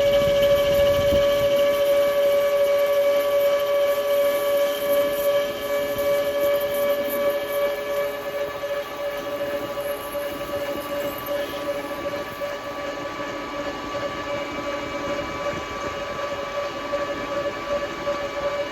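Metal lathe running with a steady high-pitched whine while facing a 1.25-inch aluminum bar. It eases a little quieter after about eight seconds.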